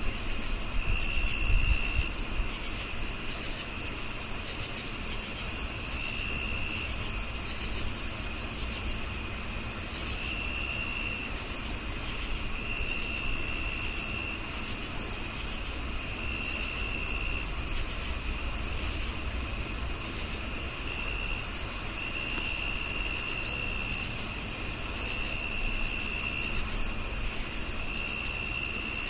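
Several crickets chirping together: one continuous high trill, one chirping in regular pulses about twice a second, and a lower trill that starts and stops in short spells. A brief low rumble comes about a second and a half in.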